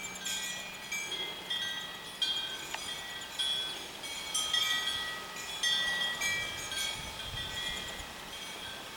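Wind chimes ringing, struck irregularly so that several steady metal notes overlap and die away.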